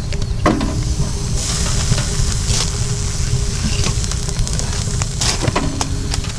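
Cabbage jeon (Korean cabbage pancake) sizzling as it fries in oil in a pan, a steady hiss with a few sharp taps.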